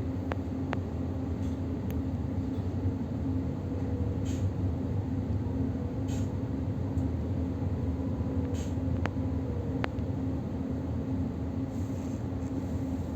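Electric suburban train running at speed, heard from inside the car: a steady low rumble of wheels on rails with a constant hum, and a few faint sharp ticks.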